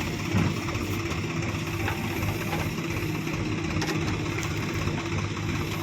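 Diesel engine of a working machine idling steadily, a low even drone.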